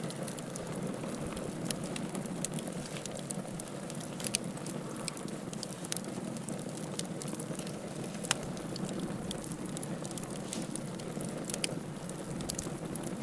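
Wood fire burning in a fireplace: a steady hiss and rustle of the burning logs with frequent sharp crackles and snaps. One louder pop comes about eight seconds in.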